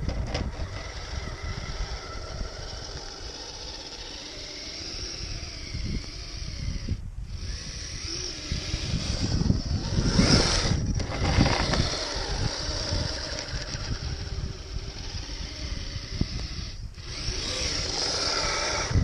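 Kyosho Blizzard RC snowcat driving on its metal tracks: the electric drive motor and gears whine over a steady rattle of the tracks. The level rises and falls with the throttle, loudest about ten seconds in, and the sound drops out very briefly about three times.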